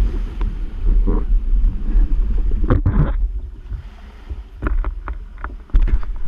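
Yamaha Waveblaster personal watercraft with its 701 two-stroke twin off the throttle: a low, uneven rumble with wind on the microphone. There are louder swells about a second in and around three seconds, and a few short clicks near the end.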